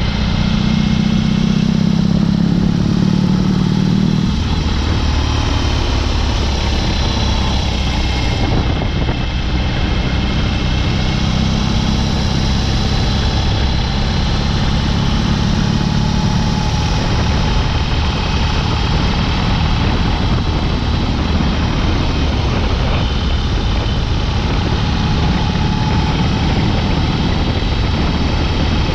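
BMW R18's 1802 cc boxer twin running through a Dr. Jekill & Mr. Hyde exhaust, open and unbaffled, while the motorcycle is ridden. The engine note changes pitch several times as the revs change.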